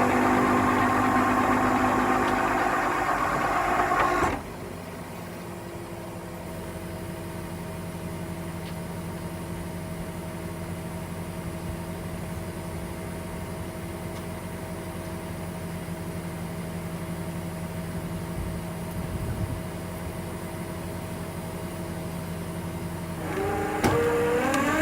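Tow truck engine running at raised speed, then dropping abruptly to a steady idle about four seconds in. Near the end it revs up again with a rising pitch.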